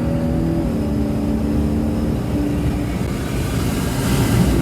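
Car engine pulling hard at full throttle, a steady loud drone whose pitch steps a few times, with a rising note near the end.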